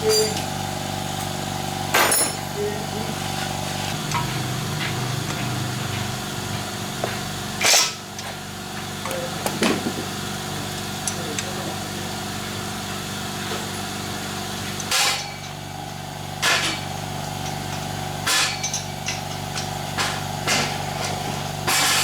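A steady machine hum, as from a small engine or motor running, with sharp knocks of metal tools struck now and then, about six times.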